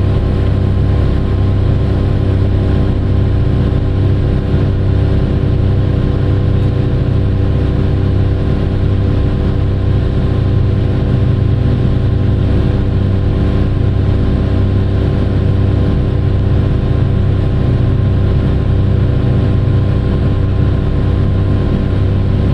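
Large diesel engine of heavy mining equipment running at a steady speed, a deep unchanging drone with no break.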